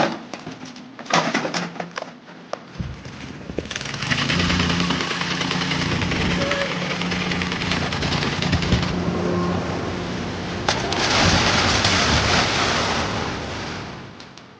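A few sharp knocks, then a motor or engine running with a loud rushing noise over it, easing briefly and coming back before fading near the end.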